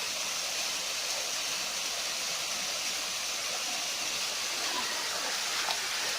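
Steady rush of running river water, an even hiss that does not change.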